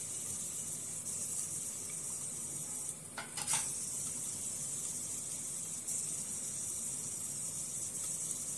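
Garlic and ginger frying in butter and oil in a covered kadhai: a steady, high sizzle, with a short burst of noise about three seconds in.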